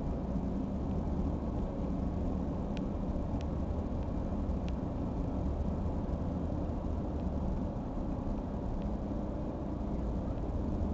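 Heavy engine of construction machinery running steadily with a low, even drone, with a few faint clicks about three to five seconds in.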